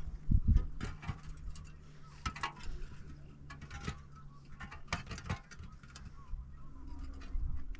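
Irregular light clicks and knocks, with two heavier thumps within the first second.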